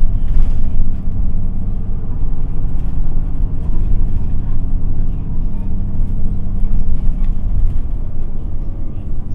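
Isuzu Erga city bus (QPG-LV234L3) driving along, heard inside the passenger cabin: a steady diesel engine drone with a low road rumble underneath.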